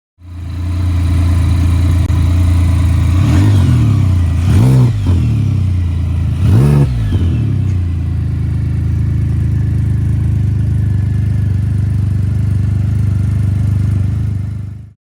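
Can-Am Spyder F3's three-cylinder engine through an aftermarket RLS exhaust, idling steadily. Its throttle is blipped a few times, a few seconds in, the last two blips the sharpest, before it settles back to idle.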